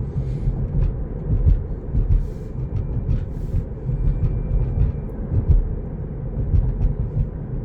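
Road noise inside a moving Tesla's cabin: a steady low rumble of tyres on the road surface, with no engine sound, and a few light clicks.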